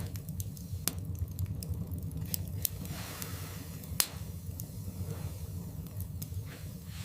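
Wood fire burning in a fireplace and crackling: scattered sharp pops and snaps over a steady low rumble, the loudest pop about four seconds in, with a brief soft hiss just before it.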